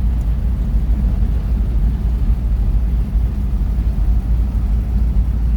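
A Chevrolet 350 V8 in an old Toyota pickup running steadily on the road, heard from inside the cab as a deep, even rumble with road noise.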